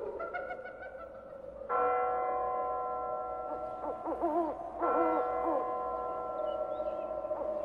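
A deep bell tolls twice, about three seconds apart, each stroke ringing on and fading slowly, while an owl hoots in wavering calls between and after the strokes. These are recorded spooky sound effects under a horror narration.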